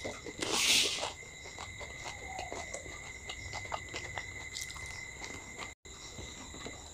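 People chewing and crunching dahi puchka, crisp hollow puri shells filled with curd, with many small crunches and mouth clicks and one louder, noisier crunch just under a second in.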